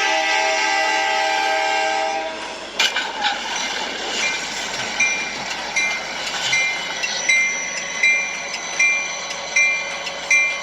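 Train horn sounding a long, steady chord that cuts off about two seconds in. A knock and the rumble of the train follow, with a bell ringing about once every 0.8 s, as at a level crossing.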